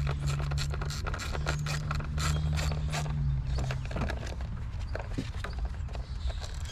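Ratchet wrench with an 8 mm socket loosening a coil pack hold-down bolt: quick irregular clicking, several clicks a second, with a low steady hum underneath.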